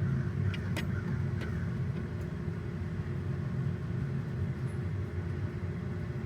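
Steady low mechanical rumble, with a few light clicks in the first second and a half as a wrench works the turbo coolant line fitting.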